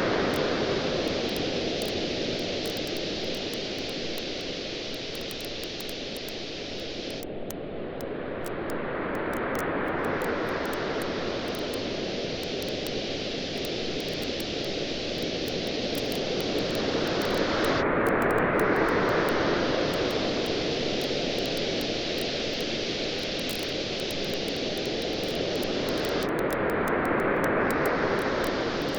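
Ocean waves washing onto a beach, swelling and receding about every eight to nine seconds, with a campfire crackling in small irregular pops throughout.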